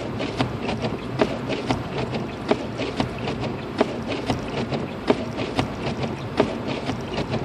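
Car driving through a snowstorm, heard from inside the cabin: a steady road rumble with frequent sharp, irregular ticks, several a second, of snow or ice striking the car.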